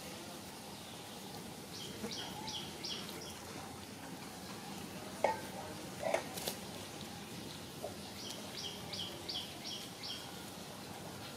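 A bird calls a quick run of short high chirps, about three a second, starting about two seconds in, and again in a longer run about eight seconds in, over a faint steady outdoor background. A few short sharp sounds come near the middle.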